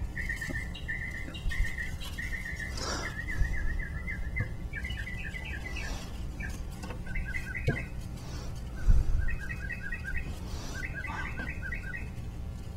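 Songbird chirping in repeated quick runs of short notes over a steady low background hum, with a few soft knocks, the loudest about two-thirds of the way through.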